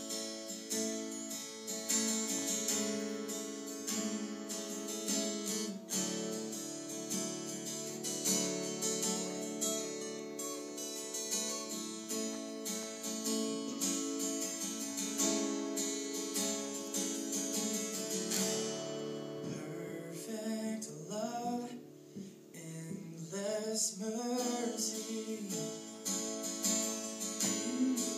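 Acoustic guitar playing chords. Between about 19 and 25 seconds in, a voice sings without words over it.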